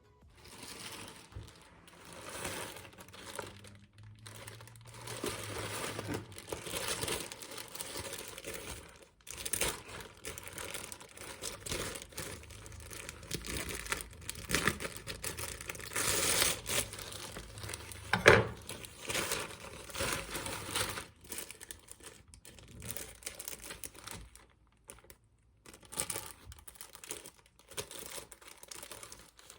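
Packaging being handled and opened: a long run of crinkling and tearing, with one sharp knock about two-thirds of the way through.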